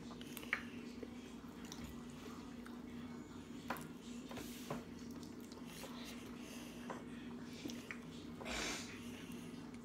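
Quiet chewing and mouth sounds of children eating pizza, with scattered small clicks over a steady low room hum. A short breathy rush comes near the end.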